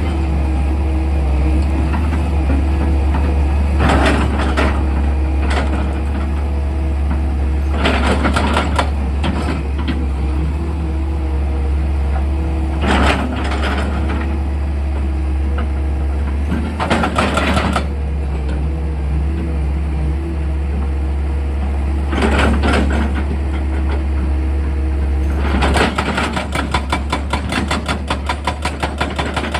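Excavator engine running with a steady heavy hum, with short bursts of noise every four to five seconds. About four seconds before the end it turns to a fast, even, rhythmic pulsing like drilling.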